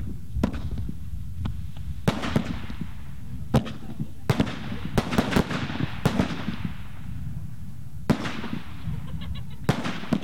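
Fireworks bursting in the sky: about eight sharp bangs, irregularly spaced a second or two apart, each trailed by a fading fizz and crackle of burning stars.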